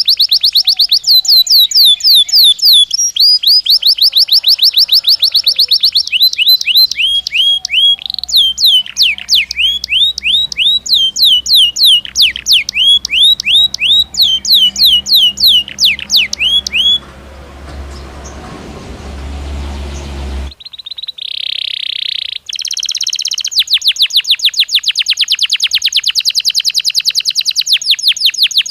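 Belgian canary singing: rapid runs of sharp, downward-sweeping whistled notes, broken about two-thirds through by a few seconds of hiss and low hum. It then resumes with a short buzzy note and a fast, even trill.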